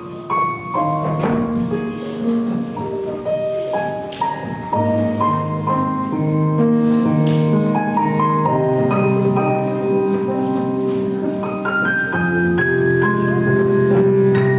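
Piano music with a slow melody over held chords.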